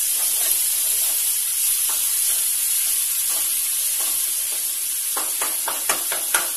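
Tomato and spice masala sizzling in oil in a kadhai on a gas stove, a steady hiss. From about five seconds in, a spatula scrapes and taps against the pan several times as the mixture is stirred.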